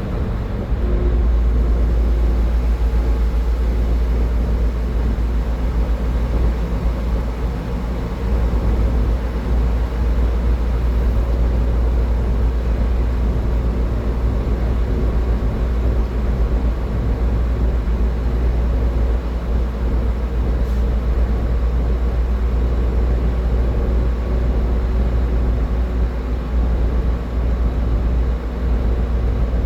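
Car travelling at highway speed: steady road and tyre noise with a strong deep rumble.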